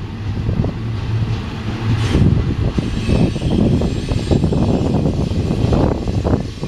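Double-stack intermodal container train rolling past: a steady low rumble of steel wheels on the rails, with frequent clicks and clanks from the well cars.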